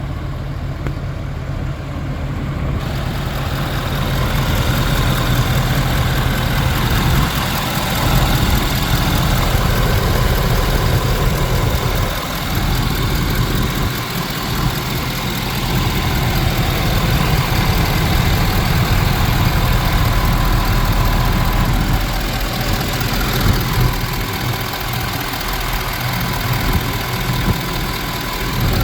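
2018 Ford F-250's 6.7-litre Power Stroke V8 turbodiesel idling steadily, getting somewhat louder a few seconds in.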